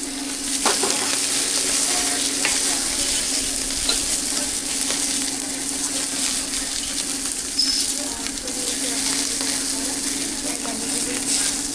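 Flatbreads frying in a hot pan, a steady sizzle with a few faint clicks, over a steady low hum.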